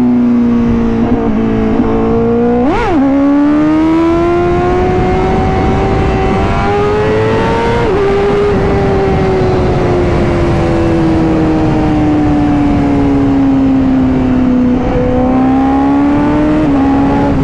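Honda CBR1000RR-R Fireblade SP's inline-four engine under way on the road: its note jumps up sharply and back about three seconds in, climbs steadily as the bike accelerates, then falls slowly for several seconds before picking up again near the end. Wind noise hisses underneath.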